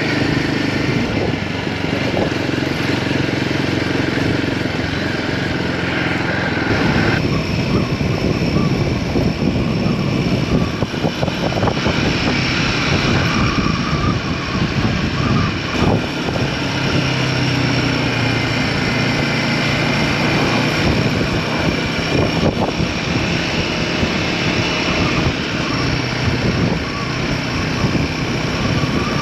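Royal Enfield Himalayan 450's single-cylinder engine running under way as the bike is ridden, its note changing a few times with speed and gears, over a steady rush of wind.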